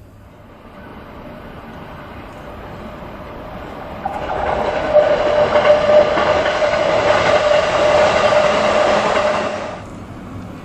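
An electric train passing close by. Its running noise builds over the first few seconds, gets much louder about four seconds in with a steady tone over it, then drops off sharply near the end.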